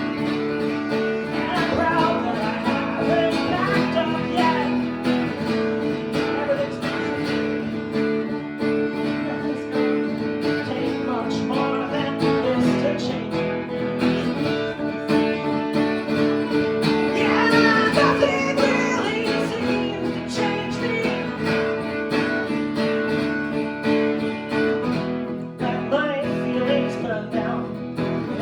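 Live band music: an instrumental passage with guitars playing steady chords and a wavering lead line above, loudest about two thirds of the way in.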